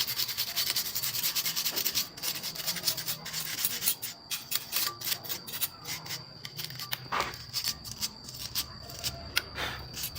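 Quick hand rubbing strokes of an abrasive on a machine part, scraping back and forth, dense for the first few seconds and then sparser. A faint steady high tone sits underneath.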